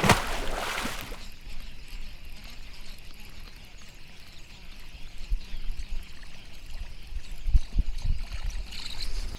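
Water splashing and trickling at the side of a fishing kayak, loudest in the first second. A few low thumps follow near the end.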